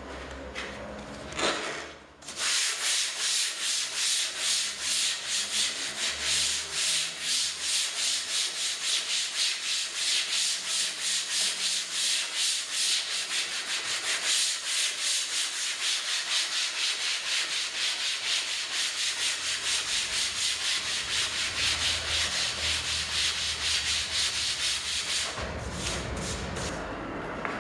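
Hand sanding of wood or MDF: rhythmic back-and-forth strokes of about three a second. It starts about two seconds in and stops a couple of seconds before the end.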